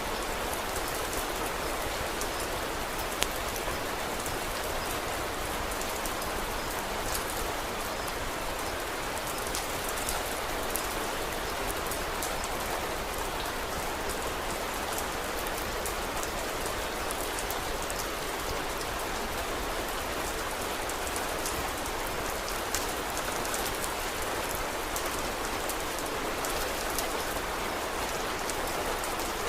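Steady rain falling in a dense, even hiss, with scattered sharp crackles from a wood fire; one louder pop about three seconds in.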